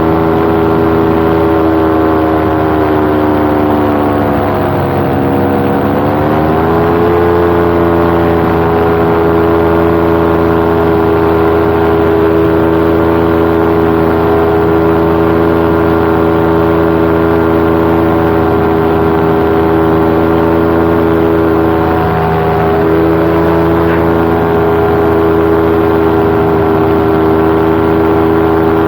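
Paramotor engine and propeller running in flight, a steady droning note that drops in pitch about four seconds in as the throttle is eased, then climbs back up and holds steady.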